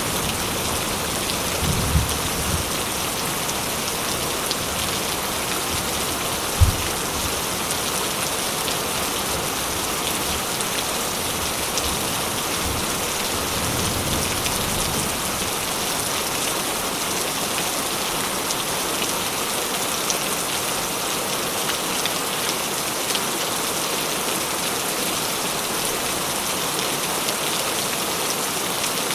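Steady, dense rain falling and pattering on surfaces. There are a few low rumbles in the first half and one short, sharp low thump about seven seconds in.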